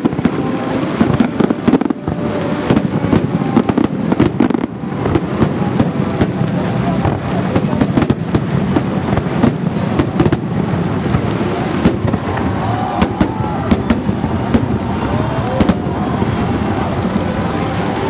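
Festive fireworks salute going off: a dense, continuous crackle with many sharp bangs one after another.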